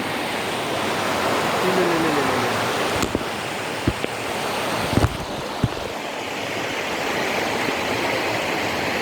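Steady rush of flowing water from a rain-swollen stream, with a few brief knocks partway through.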